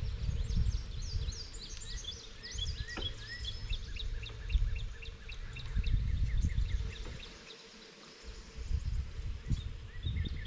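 Wind buffeting the microphone of a moving bicycle, in gusts that drop away briefly near the end, over many birds chirping in quick repeated notes.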